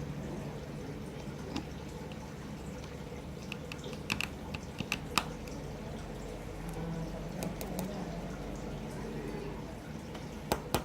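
Scattered light clicks and taps of small tools and parts being handled during a phone repair, over a steady low hum.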